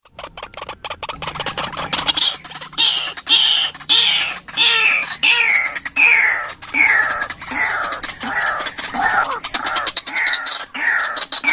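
White-breasted waterhen (ruak-ruak) calling: a run of harsh notes, each sliding down in pitch, about two a second, starting about two seconds in.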